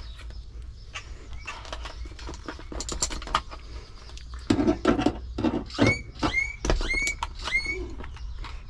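Clicks, knocks and light clanks of hand work on the truck's wiring and fasteners, getting busier about halfway through. Near the end come four short squeaks, each rising then levelling off, about half a second apart.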